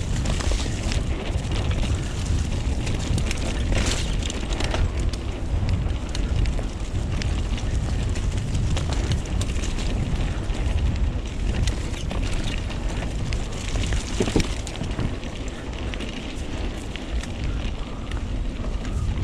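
Wind buffeting the microphone of a camera riding along on a mountain bike, over the sound of tyres rolling on a dirt trail, with scattered clicks and rattles from the bike.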